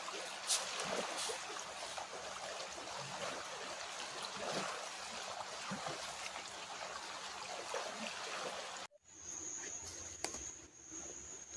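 Creek water running and trickling over rocks. About nine seconds in, it cuts off abruptly to a quieter background with a steady high-pitched tone.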